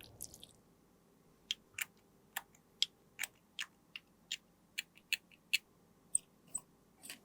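A quick series of small, sharp clicks or taps, about two to three a second, after a brief hiss at the start, from makeup being handled during a lip gloss repair.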